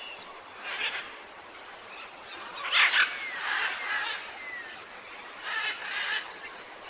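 Rhinoceros breathing out in a few short, breathy puffs, the loudest about three seconds in, with a bird calling faintly in thin gliding whistles.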